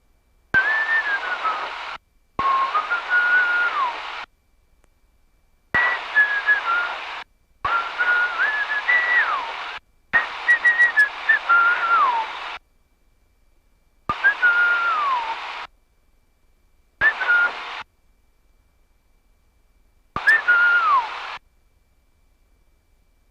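VHF airband radio in the cockpit receiving eight short transmissions in a row, each keyed on with a click and cut off abruptly. Each carries hiss and a whistle that slides up and down, mostly falling at the end.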